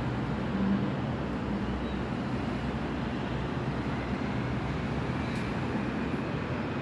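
Steady low background rumble and hiss with a faint hum, unchanging throughout.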